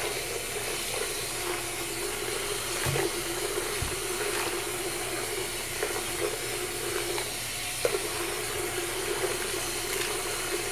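A wet bundle of curly hair extensions being lathered and scrubbed with shampoo in a sink of water: a steady wet noise with a few small splashes and squelches.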